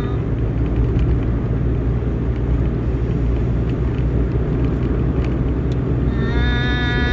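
Steady low rumble of a moving vehicle. A steady pitched tone with many overtones comes in near the end.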